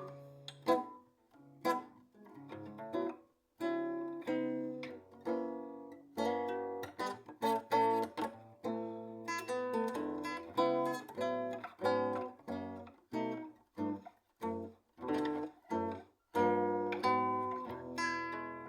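Acoustic guitar music: short plucked and strummed chords, each dying away, with brief breaks between them.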